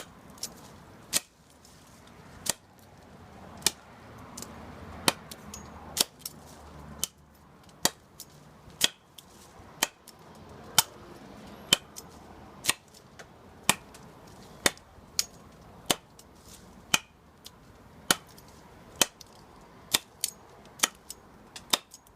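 Gerber machete hacking at a starfruit tree branch: sharp strikes of the blade into the wood, about one a second, kept up throughout.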